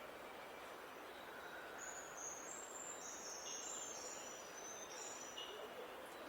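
A songbird singing a run of short, high, thin notes over a steady background hiss.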